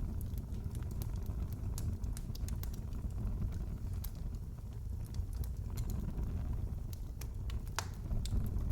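Wood fire crackling in a fireplace: a steady low rumble of flame with scattered sharp pops and snaps, one louder crack near the end.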